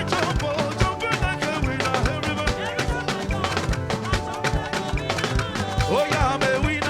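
Live gospel praise band playing an upbeat instrumental passage, with a steady, fast drum beat under guitar and keyboard lines.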